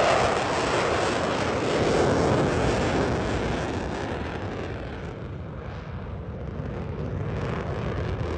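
Jet engine roar of F/A-18 fighter jets flying past, loud at first and fading away over about five seconds, then swelling slightly again near the end.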